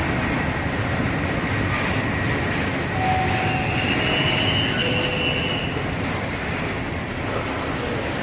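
A train running along the rails, with a steady loud rumble and a high squeal from the wheels for about two seconds partway through.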